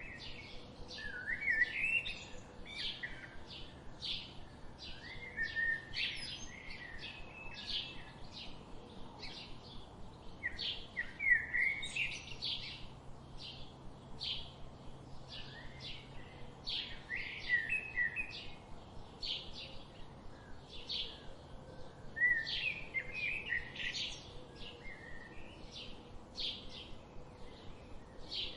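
Wild birds singing: one bird repeats a short high chirp two or three times a second, while another sings louder warbled phrases every five or six seconds.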